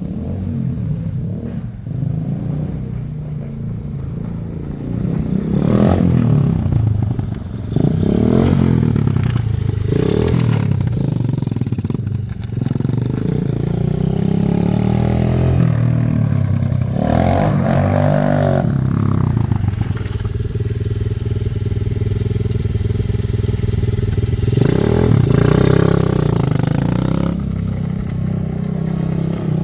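Small 125cc quad bike engine running throughout, revving up and dropping back several times, with a steadier stretch about two-thirds of the way through.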